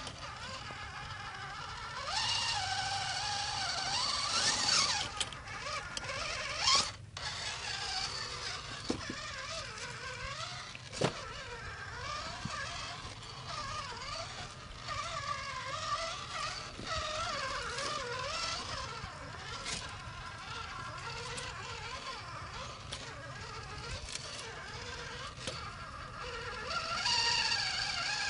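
Electric motor and gears of a scratch-built scale RC Toyota Blizzard whining as it drives, the pitch rising and falling with the throttle. The whine swells with a louder rush of noise a couple of seconds in and again near the end, with a few sharp clicks along the way.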